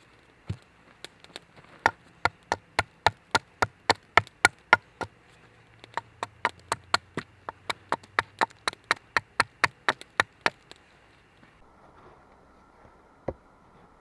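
A fast, regular run of sharp knocks of a tool striking wood, about three to four a second, with a brief pause partway and stopping about ten seconds in; a single knock follows near the end.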